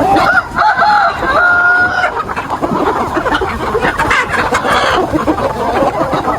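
Chickens clucking, with a rooster crowing in the first two seconds, its call ending on a drawn-out held note.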